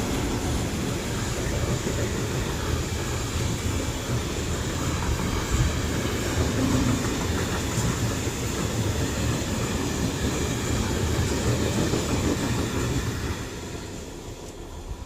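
A train rolling past on the rails, a steady rumble of wagons and wheels that fades away in the last couple of seconds.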